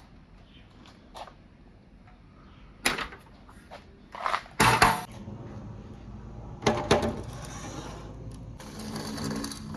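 Knocks and clatter of hard objects. The loudest knocks come about three and five seconds in, and a steadier rattling rush follows near the end.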